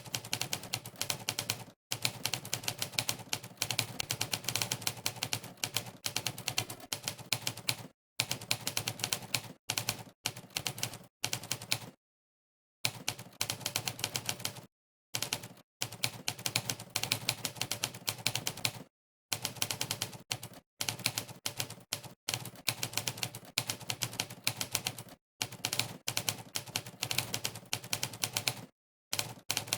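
Monkeytype's typewriter keypress sound effect: rapid typewriter-key clacks, one for each key typed. They come in runs of a few seconds, broken by brief pauses of dead silence.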